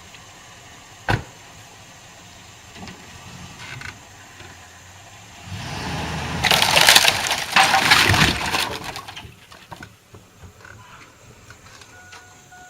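Old wooden carport shed of rough-cut lumber cracking and collapsing as it is pulled down, a loud rush of splintering and crashing timber lasting about four seconds from about halfway in. A single sharp snap comes about a second in.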